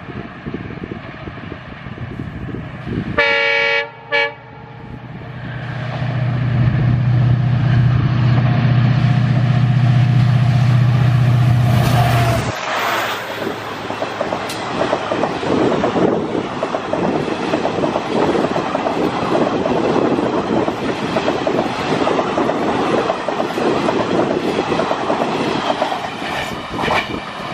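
WDP4D diesel-electric locomotive with an EMD 710 two-stroke engine sounding a short two-part horn blast about three seconds in, then running past with its engine's loud low drone, which drops in pitch and cuts away as the locomotive goes by. The coaches follow at speed, with a steady rush and the rhythmic clatter of wheels over rail joints.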